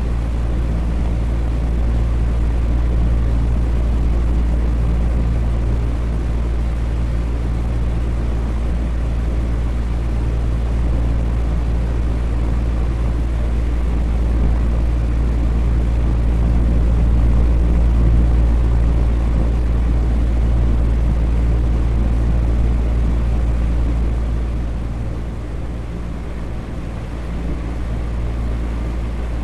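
Electric fan running steadily: an even rushing of air over a low motor hum, easing slightly for a couple of seconds near the end.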